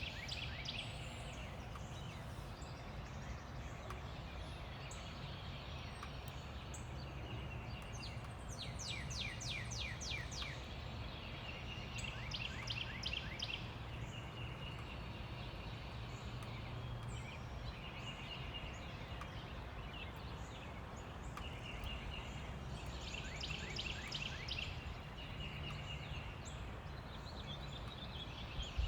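Several wild songbirds singing at once: fast trilled series of quick down-slurred notes that come and go, with some held whistled notes, over a steady low rumble of distant road traffic.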